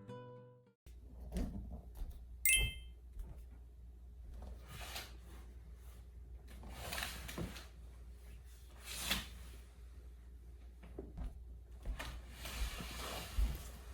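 Guitar music cuts off within the first second, followed by scattered knocks, clicks and rustling over a steady low rumble, with one short high clink about two and a half seconds in.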